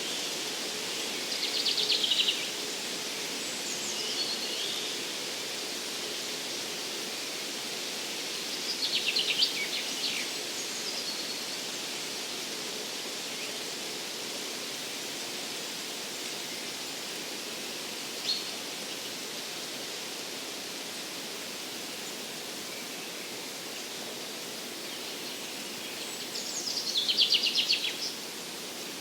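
A songbird sings three short trilled phrases, each about two seconds long and falling in pitch: one near the start, one about nine seconds in and one near the end, with a single short call in between. Behind it runs a steady rushing hiss of forest ambience.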